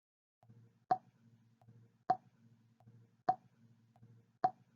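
Four water droplets plopping, one about every 1.2 seconds, each a short bright drip.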